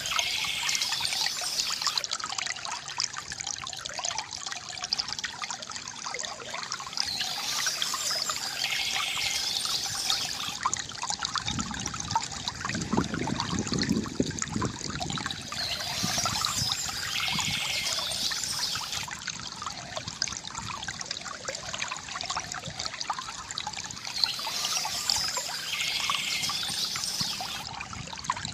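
Stream water trickling and flowing steadily, with a lower swell of water about halfway through. A high bird song phrase returns about every eight seconds, four times.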